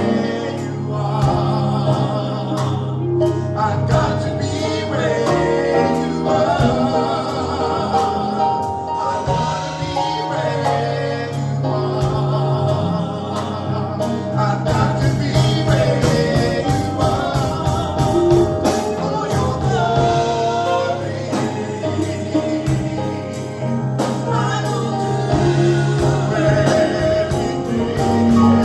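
Gospel praise band playing with singers and a choir, drums keeping a steady beat under sustained sung lines and bass.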